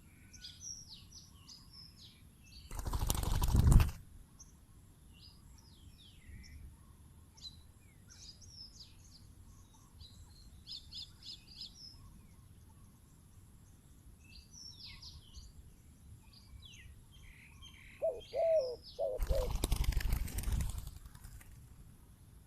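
Small birds chirping throughout, with two loud bursts of wing flapping: one about three seconds in and a longer, pulsing one near the end. Just before the second burst comes a short low call, typical of a spotted dove.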